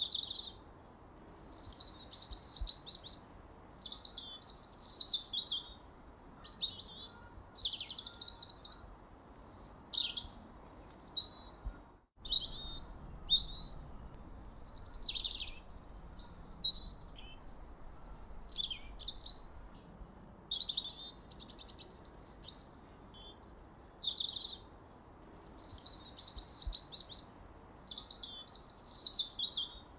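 Songbirds chirping and singing in a busy, overlapping chorus of short high chirps and quick trills. The sound cuts out for an instant about twelve seconds in, then carries on.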